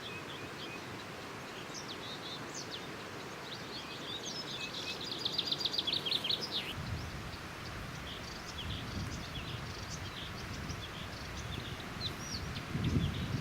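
Nightingales singing: scattered short whistled phrases, with a fast rattling trill about five seconds in, over a steady hiss. A low rumble comes in about halfway through.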